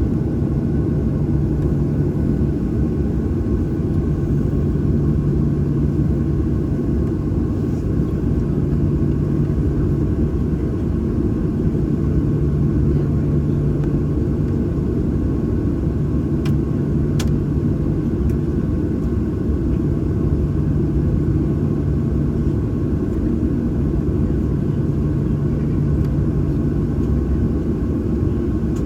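Boeing 737-800 cabin noise with the CFM56-7B engines at idle: a steady low rumble, with a low hum that fades in and out every few seconds.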